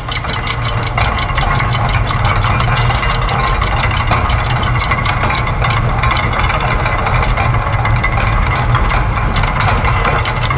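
Layered loops of factory machine sounds: rapid, evenly spaced mechanical clicking over dense clattering noise, with a low steady hum that comes in at the very start.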